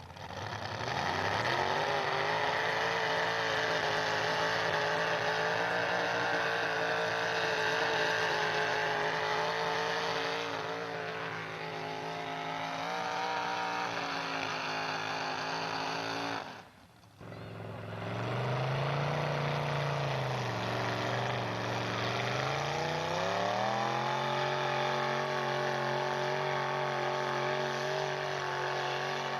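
Pulling truck's engine revving up hard and held at high revs under load, its pitch sagging and wavering partway through. A brief break about two-thirds of the way in, then an engine climbs back up to high revs and holds there.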